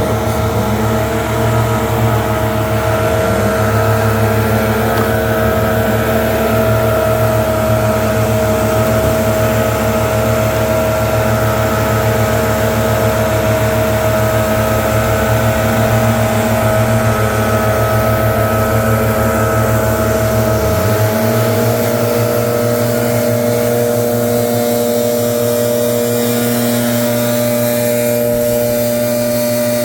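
Gas-powered leaf blower running steadily at high speed, blowing leaves out of river rock. About two-thirds through, its deep rumble drops away and its pitch steps up slightly.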